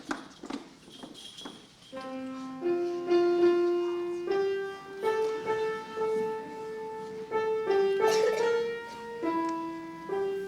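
Piano playing a slow melody of held notes, starting about two seconds in after a few soft knocks and shuffles.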